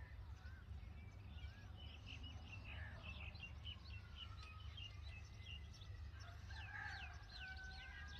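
Faint bird chirping: a quick run of short high chirps, then a few sweeping notes about seven seconds in, over a steady low rumble.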